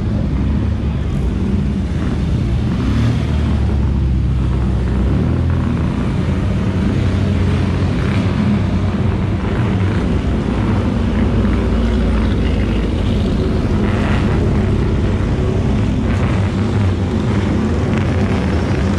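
Engines of classic sports cars running at low speed as they roll past one after another, a steady low engine sound throughout.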